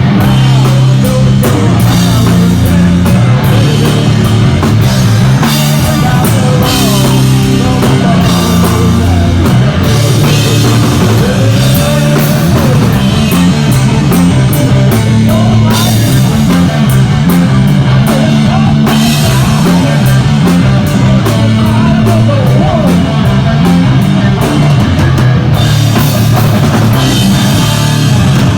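Live doom metal band with distorted electric guitars, bass and drum kit playing loudly at full volume, with a heavy riff driving the song to its close; the music stops abruptly at the very end.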